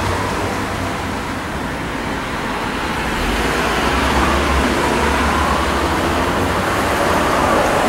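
Steady rumble and road noise of a moving vehicle, growing a little louder about three seconds in.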